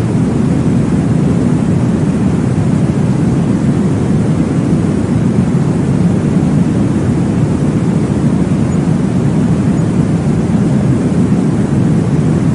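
Steady, low whooshing noise from a baby sleep-aid womb-sound track, heavy in the low end with little hiss, unchanging throughout.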